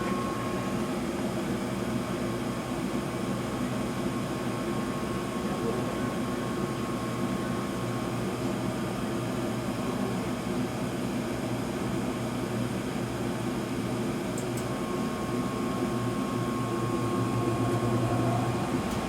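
York Diamond 80 gas furnace running in heat mode: a steady rushing hum from the inducer fan and the burning burners. Toward the end the low hum grows louder as the circulating blower starts up.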